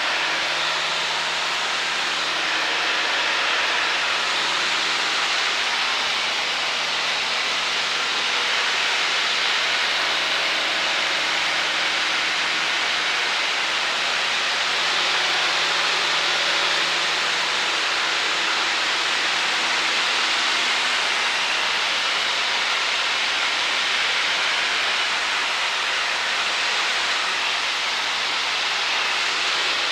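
Cessna 152's engine and propeller running steadily in flight, heard from inside the cabin as a constant rushing noise with a faint engine hum underneath.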